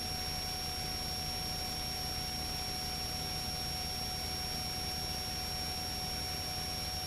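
Steady low hum with a faint, thin high-pitched electronic whine, unchanging throughout.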